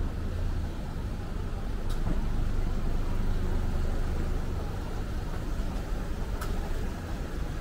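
City street ambience with a motor vehicle engine running as a steady low rumble, and a couple of faint light clicks.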